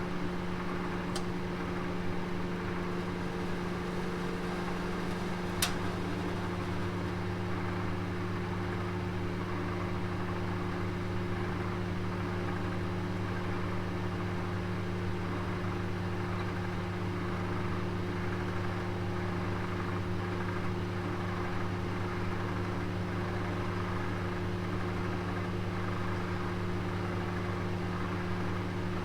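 Oven running with a roast inside: a steady hum under an even whoosh. Two brief clicks come about a second and about six seconds in, and after the second click the low hum grows stronger.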